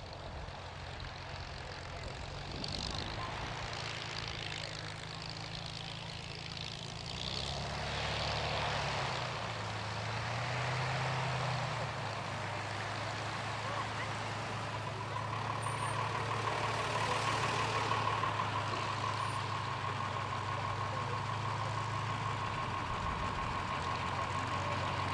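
Aircraft engine noise from a flying display, swelling and easing as the aircraft passes, with a steady high whine joining about halfway through.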